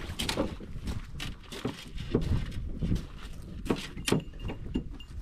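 Footsteps on a beach: an irregular run of short knocks and crunches, with wind rumbling on the microphone.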